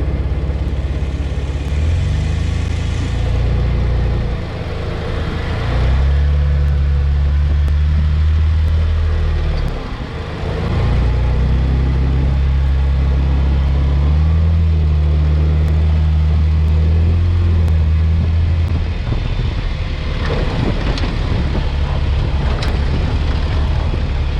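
Jeep engine running under load as it drives off-road in four-wheel-drive high, its pitch stepping up and down with the throttle, with brief let-offs about four and ten seconds in. No creaks or squeaks come from the suspension, the sign that the re-sleeved, lubricated suspension is now quiet.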